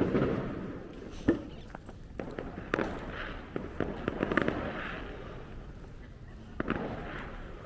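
Fireworks going off: a string of sharp bangs at irregular intervals, the loudest at the start and about a second in, with bursts of crackling in between.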